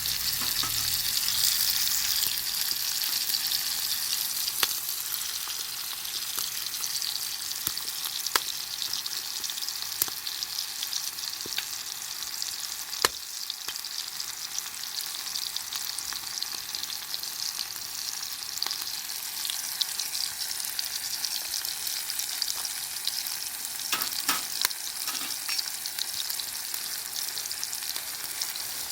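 Food frying in a pan over a campfire: a steady sizzling hiss with occasional sharp pops.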